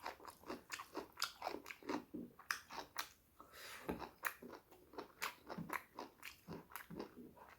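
Close-miked chewing of a pork curry meal: rhythmic wet mouth clicks and smacks, about three or four a second.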